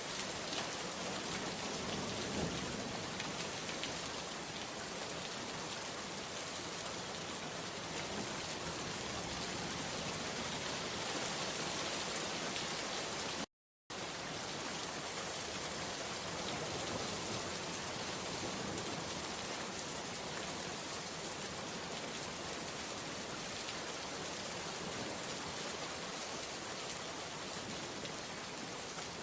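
Steady rain falling, an even hiss of drops on a surface. About halfway through the sound cuts out completely for under half a second, then resumes as before.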